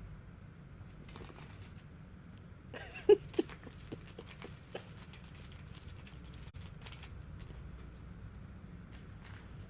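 Two short, sharp bird calls in quick succession about three seconds in, over a low steady hum, with a few faint light taps and rustles.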